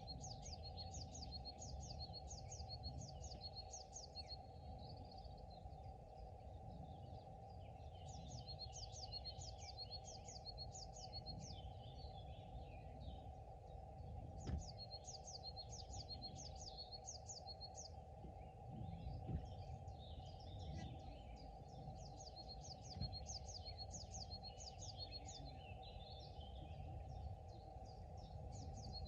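Songbirds singing by a pond: one bird repeats a fast run of high, quick notes in phrases of a few seconds, coming back about five times, with softer scattered chirps from other birds between. Under it run a steady low hum and a rumble of wind on the microphone, with a few short soft knocks.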